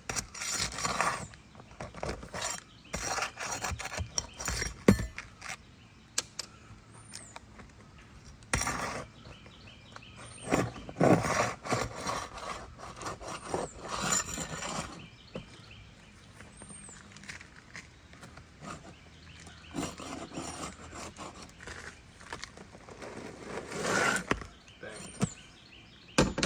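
Asphalt roof shingle being pried up and its nails pulled out: irregular scraping and rubbing with occasional sharp clicks.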